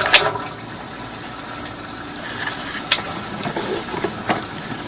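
An engine idling steadily, with a few sharp clicks or taps over it: one at the start, one about three seconds in, one near the end.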